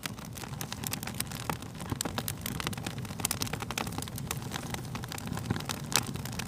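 Fire crackling: a steady stream of sharp pops and snaps over a low rumble of flames, with one louder crack near the end.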